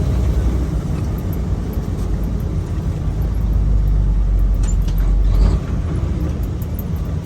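Semi truck's diesel engine running steadily while driving, heard from inside the cab as a low drone. The engine sound swells briefly and then dips about five and a half seconds in.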